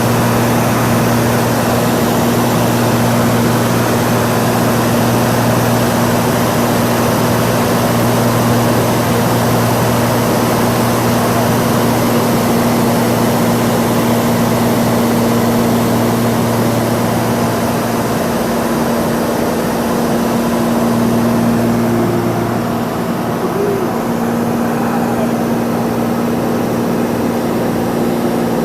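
Cessna 182's piston engine and propeller running steadily in flight. About three-quarters of the way through, the engine note changes and gets a little quieter.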